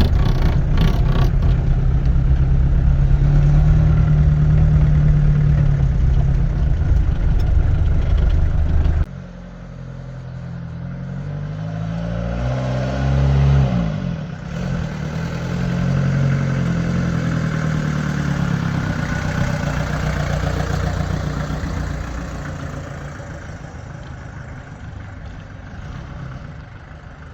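Ford Transit Mk2 van's engine running while the van is driven: a loud steady run for about the first nine seconds, then after a sudden drop the engine note rises and falls several times as it pulls away and changes speed, fading away near the end.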